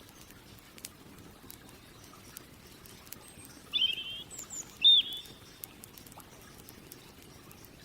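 Campfire crackling with scattered small pops, and a bird calling twice just past the middle in two short chirped phrases, the second the loudest.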